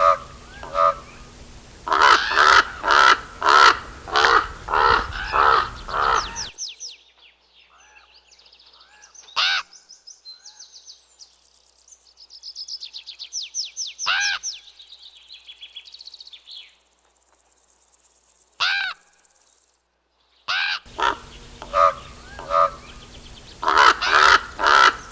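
Common raven calling in runs of loud, harsh croaks, each run several calls in quick succession. One run comes at the start and another near the end, with a few single croaks and some high, faint chirping in the quieter stretch between.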